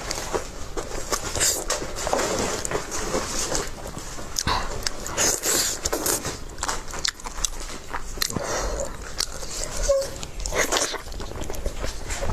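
A person chewing food with their mouth: wet smacks and clicks coming irregularly, several times a second.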